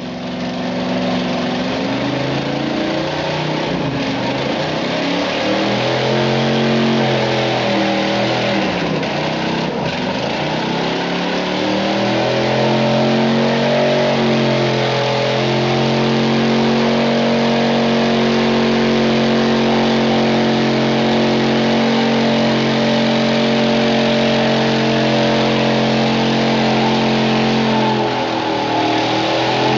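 Modified gas pulling truck's engine at high revs during a pull, the revs dipping and climbing several times in the first ten seconds, then held high and steady, sagging once briefly near the end.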